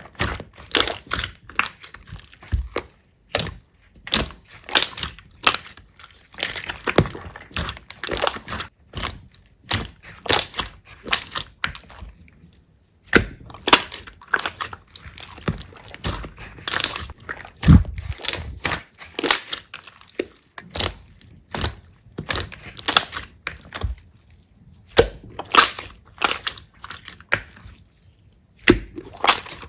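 Slime being squeezed and pressed by hand, giving a dense run of crackles and clicks, with short pauses about twelve seconds in and near the end.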